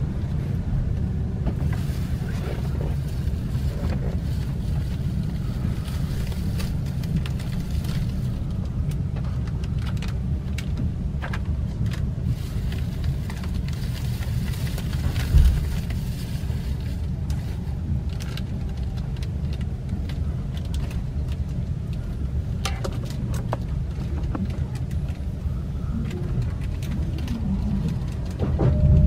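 Inside the passenger car of a JR commuter train running slowly along a station platform: a steady low rumble from the running gear and motors, with a single low thump about halfway through.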